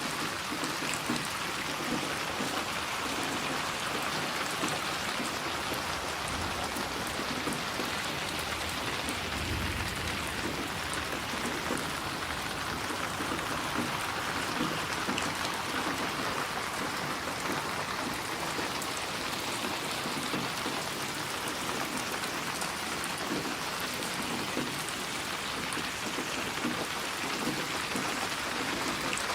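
Steady rain falling: an even hiss of dense raindrops that does not let up, with a brief faint low rumble about ten seconds in.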